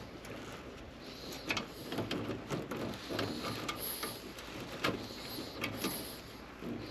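Irregular small clicks, taps and rustles of hands and tools handling wiring inside an air handler cabinet.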